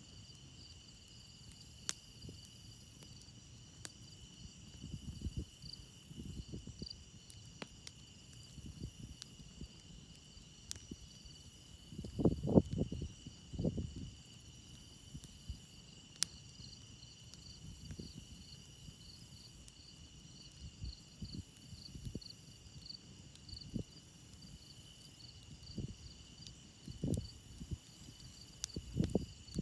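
A chorus of crickets chirping steadily over a wood campfire, with a few sharp pops from the crackling fire. Low rumbles come and go, loudest about twelve seconds in.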